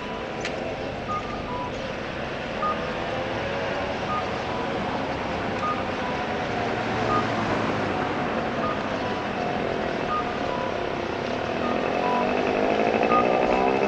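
Steady road-traffic noise with a vehicle engine running, its pitch rising near the end, and short high electronic beeps repeating every second or two.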